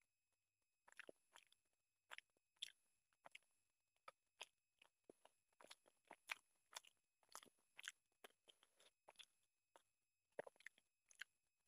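Faint, close-miked eating sounds of chicken curry and rice eaten by hand: chewing and wet, sticky clicks and smacks that come irregularly from about a second in.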